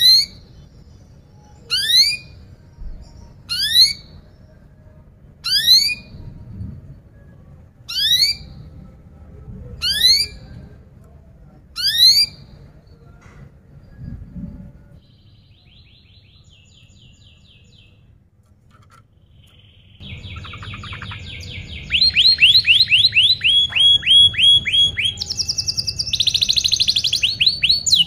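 Canary calling: a short sharp chirp repeated about every two seconds, then after a quiet pause, fast rolling trills of canary song beginning about twenty seconds in.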